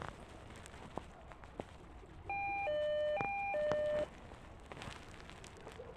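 Electronic door intercom ringing: a two-note beep alternating high and low, four notes of about half a second each, starting a little over two seconds in. A few faint clicks come before it.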